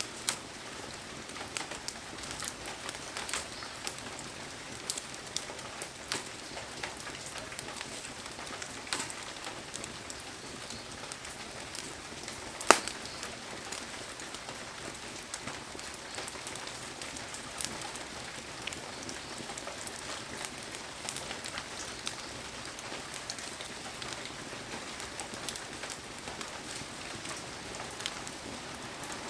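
Heavy rain falling steadily, with scattered sharp ticks and pops throughout and one loud crack about thirteen seconds in.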